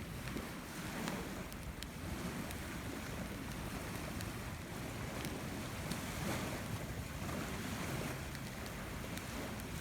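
Campfire burning: a steady rush of flames with occasional sharp crackles and pops from the burning wood.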